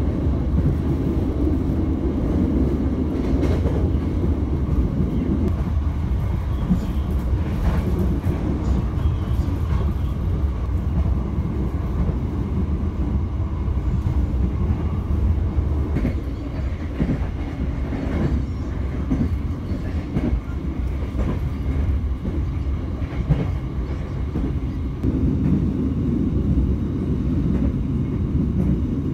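Bengawan passenger train running along the track: a steady low rumble of wheels on rails, with a few faint clicks from the rail joints.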